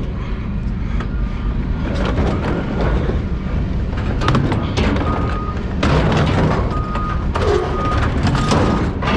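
Engine of a truck or yard machine running with a steady low rumble, under repeated metal clanks and bangs of scrap being unloaded. In the second half a backup alarm beeps several times.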